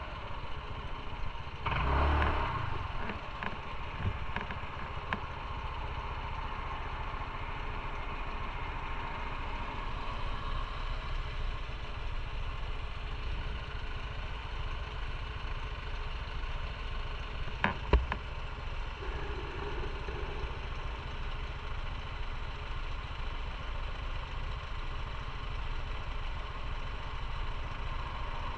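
Motorcycle engine running steadily at low revs, close to idle, with a brief louder surge about two seconds in and a single sharp click near the middle.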